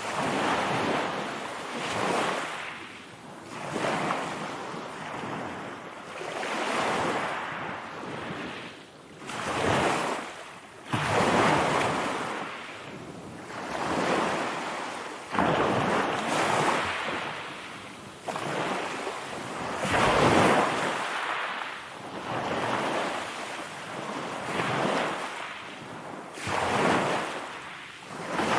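Ocean surf: waves breaking and washing in, swelling and falling away about every two seconds.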